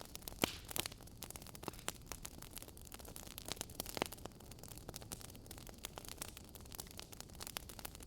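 Wood fire burning in a fireplace, with irregular crackles and pops over a steady hiss. A few sharper pops come about half a second in and again about four seconds in.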